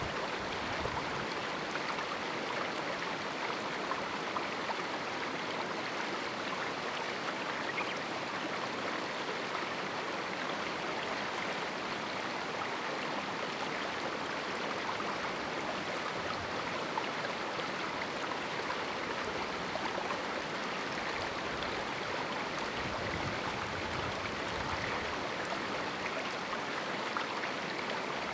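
A small canyon river flowing steadily over rocks, an even rushing babble with small splashes flickering through it.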